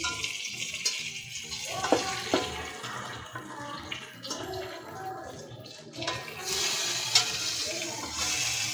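Stuffed baby brinjals frying in mustard oil in a kadhai on a low flame, with a steady sizzle. A metal spatula clicks twice against the pan about two seconds in as they are turned, and the sizzle grows louder from about six and a half seconds.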